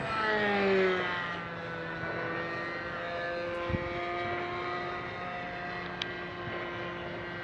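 Petrol-engined single-propeller radio-controlled model airplane flying past. Its engine note is loudest just under a second in and drops in pitch as it goes by, then carries on as a steady, fainter drone.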